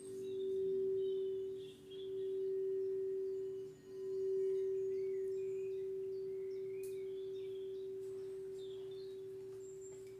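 Singing bowl sounding one steady ringing tone that swells and dips a few times, then rings on, slowly fading, with faint bird chirps behind it.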